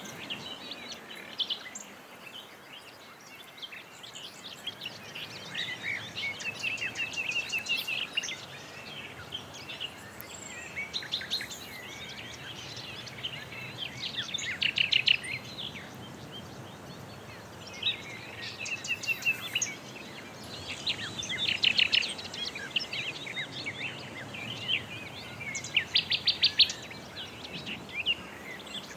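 Songbirds singing outdoors, with short phrases of rapid trills and chirps repeating every few seconds over a faint steady background of outdoor noise.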